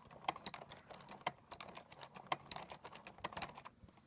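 Plastic LEGO Technic gears and parts clicking and rattling in quick, irregular ticks as a hand crank drives the flapping-bird mechanism; the clicking stops shortly before the end.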